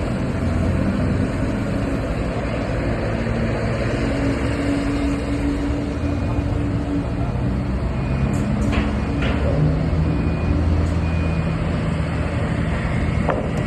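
Heavy diesel engine of large mining equipment running steadily, its pitch shifting a few times as the revs change. Short high beeps repeat about once a second through the middle, with a few sharp clicks.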